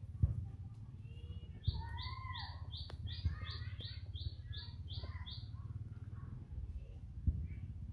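Birds calling: one repeats a short high note about three times a second from about two seconds in until past the middle, while others give lower, slurred calls. A low rumble runs underneath, with a few soft knocks.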